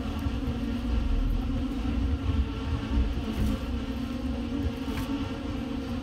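Passenger train heard from inside the carriage while another train passes close alongside: a steady low running noise with a steady hum, and a few faint clicks.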